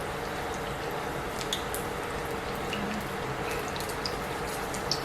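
Egg rolls deep-frying in hot peanut oil: a steady sizzle dotted with small pops and crackles.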